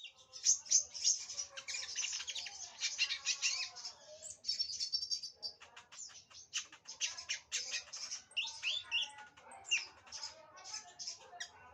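Sunbird singing a fast, unbroken run of high twittering chirps and trills.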